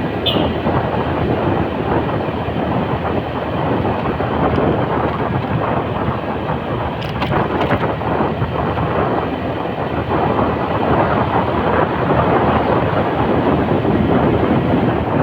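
Steady noise of a motorcycle on the move: its engine running and wind rushing over the microphone. A brief high squeak comes just after the start, and a few sharp clicks about seven seconds in.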